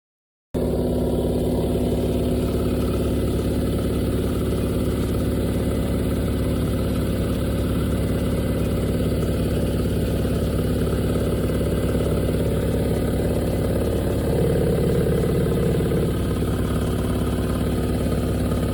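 Panasonic NA-VX9300L drum washing machine running with a steady rattling and clattering, swelling louder for a couple of seconds near the end. The rattle comes from a failed suspension damper whose rubber bushing has crumbled.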